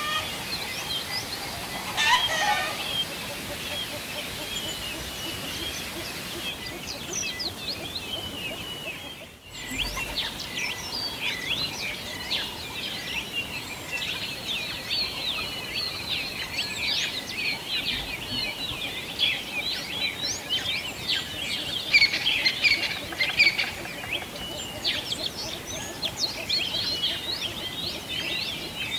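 A chorus of small birds chirping and singing, many quick high calls overlapping throughout. The sound drops out briefly about a third of the way in, as at an edit, and the chorus comes back busier.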